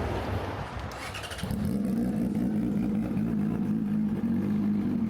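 A motor vehicle's engine on a city street: a steady low drone sets in about a second and a half in and holds, over general traffic noise.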